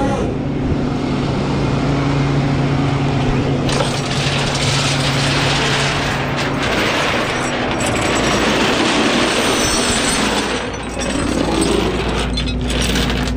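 Hino rollback's diesel engine running steadily at idle with the PTO engaged. About four seconds in, a loud rattling hiss from the loading work on the bed starts and runs most of the rest, dropping briefly near the end.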